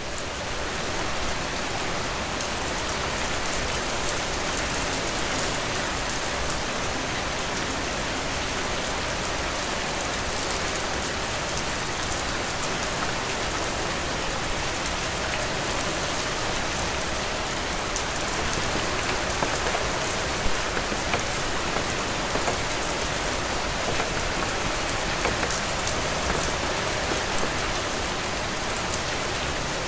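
Heavy rain falling steadily, a dense even hiss with scattered sharper drop ticks. It swells in over the first second.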